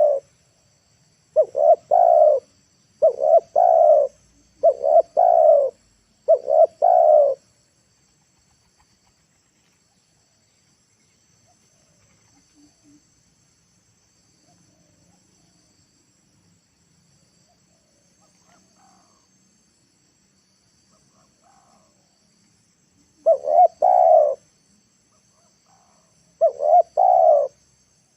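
Spotted dove cooing: a run of repeated coo phrases in the first seven seconds, then a long pause, then two more short coo phrases near the end.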